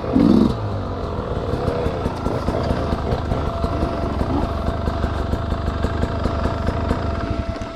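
Dirt bike engine running near the riders, mostly at idle with a few short blips of the throttle. The loudest is a brief burst right at the start.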